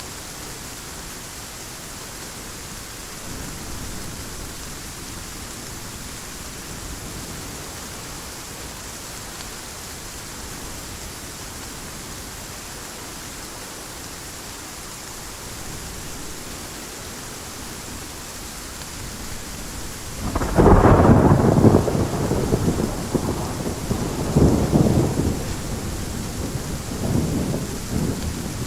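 Steady heavy rain, then about two-thirds of the way in a sudden loud thunderclap that rumbles on in rolling waves for several seconds.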